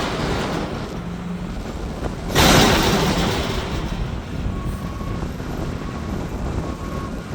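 Mack McNeilus front-load garbage truck working a dumpster: its diesel engine runs steadily, a single loud crash comes about two seconds in, and from about halfway on a reversing alarm beeps about once a second.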